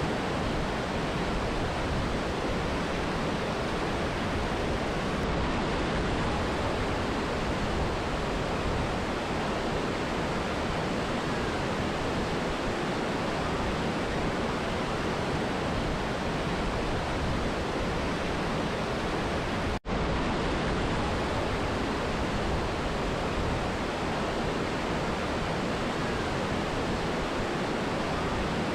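Rushing water of a mountain river and waterfall, a steady, even roar with no change. It cuts out for a split second about two-thirds of the way through and comes straight back.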